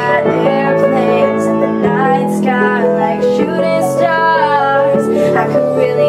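Piano accompanying a female voice singing long, drawn-out notes.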